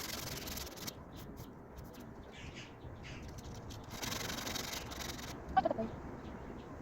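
Sandpaper rubbed by hand on the car's body metal, in spells of rasping strokes, one near the start and a longer one past the middle. A brief high chirp follows the second spell.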